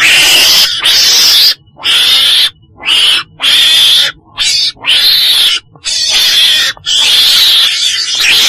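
Calls of a weasel-family animal (chồn đèn, Mustela), used as a trapping lure call. The calls are harsh screeches, each under a second long, repeated about once a second in a rapid series.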